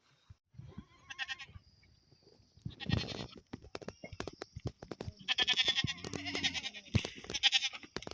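Goats bleating several times, the calls wavering and trembling, the longest about five to six and a half seconds in. Short sharp clicks and taps are scattered between the calls.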